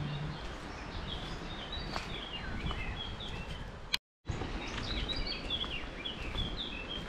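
Small birds singing: rapid, repeated short chirps and down-slurred notes over a steady low background noise. The sound drops out completely for a moment about four seconds in.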